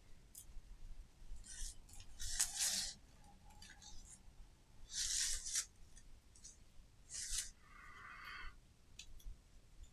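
Paper-covered craft wire being wound around a handle into a spiral: a handful of short rustling, scraping strokes a second or two apart.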